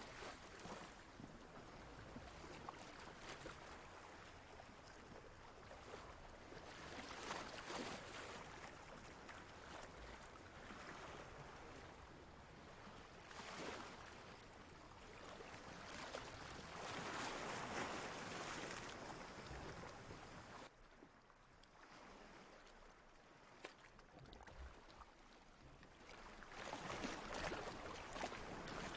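Ocean waves washing in and drawing back, a soft hiss that swells and fades every few seconds, with a quieter lull a little past the middle.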